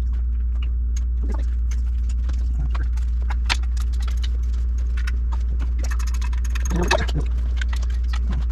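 Socket and wrench clicking and clinking against exhaust header bolts and pipes as the header bolts are worked loose, in irregular scattered clicks with a busier scrape of metal about two-thirds of the way through, over a steady low hum.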